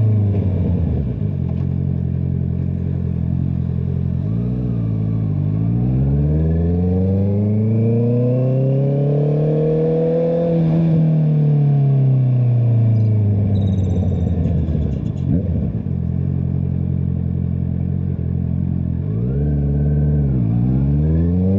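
Honda CBR650R's inline-four with an Akrapovic exhaust, ridden on the road. The engine note falls off at first and dips and picks up again about five seconds in. It then climbs steadily for about four seconds under acceleration and falls away again. Near the end it dips once more and starts rising.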